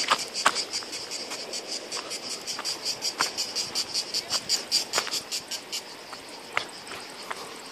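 European cicadas singing: a rapid run of high, pulsed chirps, about five or six a second, that stops about six seconds in, over a fainter steady high buzz. A few sharp clicks sound in between.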